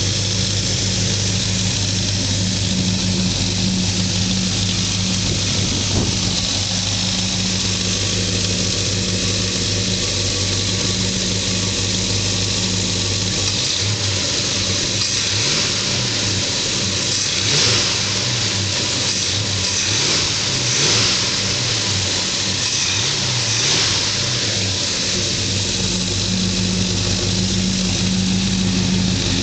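Ford Thunderbird engine heard from inside the cabin while driving: a steady drone, then about halfway through the pitch wavers up and down for some ten seconds as the revs change, settling back to a steady drone near the end.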